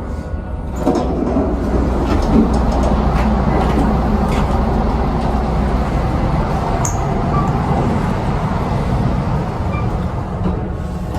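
Kone elevator cab travelling between decks: a steady rumble and rushing noise that builds about a second in and holds, with a few clicks and knocks in the first seconds.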